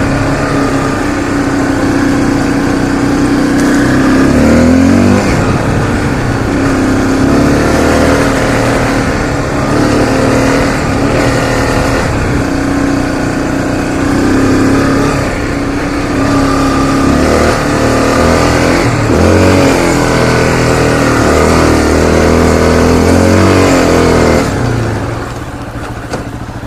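Honda CRF250L's single-cylinder four-stroke engine revving up and down repeatedly while riding through mud, easing off near the end.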